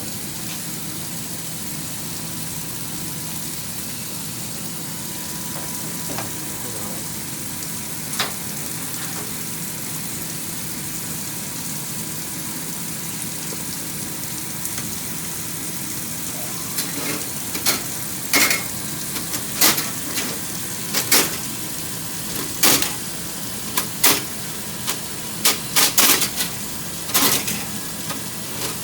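Electric flexible drain rodder running, its spinning wire cable turning inside a drain pipe with a steady hiss. About two-thirds of the way through, sharp irregular knocks and clicks start, coming roughly once or twice a second to the end.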